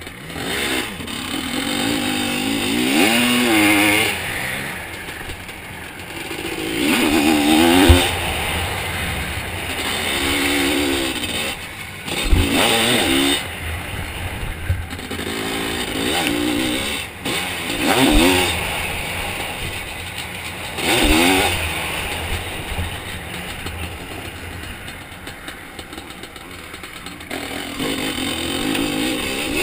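Two-stroke Zabel 700 sidecar-cross engine revving hard and then dropping off, again and again, about six surges as the outfit accelerates and backs off around the track. A few short low thumps sound among the revs.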